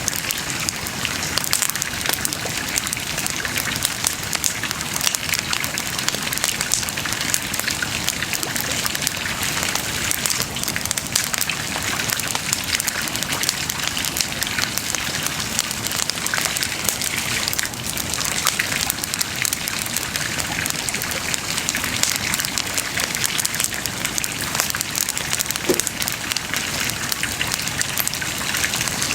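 Wood bonfire burning, with a dense, steady crackle of small pops.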